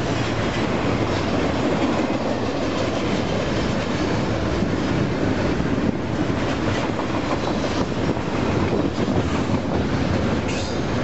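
Union Pacific double-stack intermodal train's container well cars rolling past at close range: a steady noise of steel wheels on rail, with scattered clicks, most of them near the end.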